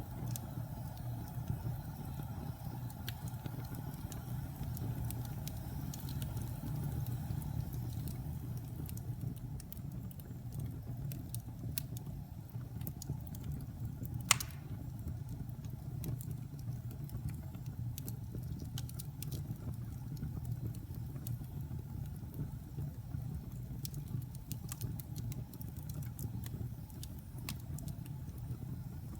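Wood fire burning in a fireplace: a steady low rumble of the flames with scattered crackles, and one sharper pop about halfway through.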